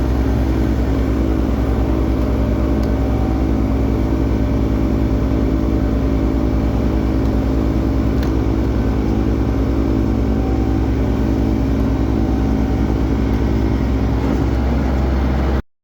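Kioti CS2510 tractor's three-cylinder diesel engine running steadily under load, driving a front-mounted SB50 snow blower. The sound cuts off suddenly near the end.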